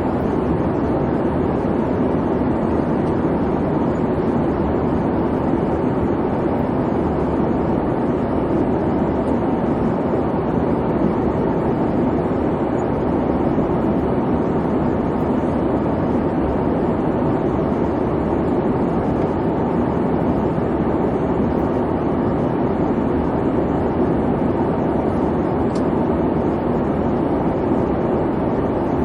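Airliner cabin noise in flight: a steady, even rumble and hum of the engines and airflow, deepest around the low-middle range and unchanging throughout.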